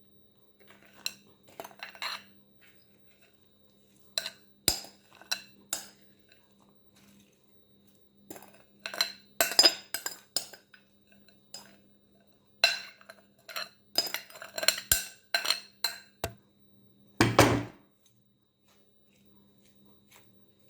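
A spoon clinking and scraping against a bowl while apple-strudel filling is scooped out, in irregular clusters of short clinks with one louder clatter near the end. A faint steady hum runs underneath.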